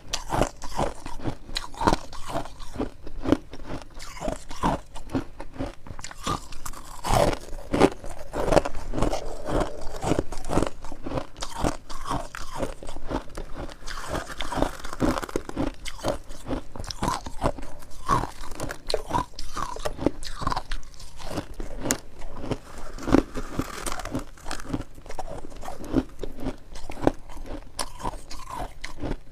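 Dense freezer frost being bitten and chewed, a steady run of sharp, irregular crunches close to the microphone.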